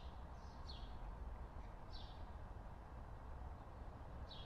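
Faint outdoor background with a small bird giving short, falling chirps every second or two, over a steady low rumble.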